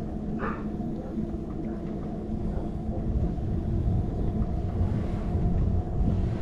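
Low rumble of wind buffeting the microphone and of the bicycle rolling over the road, picked up by a camera clamped to the handlebars while riding. The rumble gets louder about halfway through.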